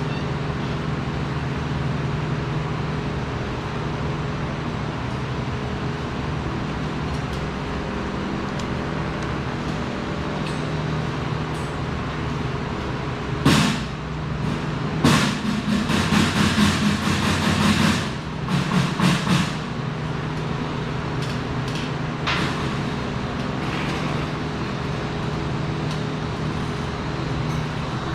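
Steady hum of workshop machinery, broken about halfway through by a sharp metallic hit and then several seconds of loud metalworking noise, with a shorter burst just after.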